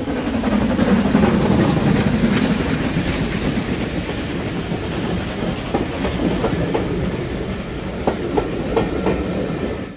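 Recording of a full-size steam-hauled railway train running past: a steady rumble of wheels and coaches on the track, with a few sharp clicks in the last couple of seconds.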